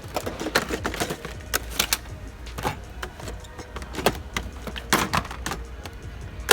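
Irregular clicking and clacking of blister-packed die-cast toy cars being handled and pushed along a store shelf.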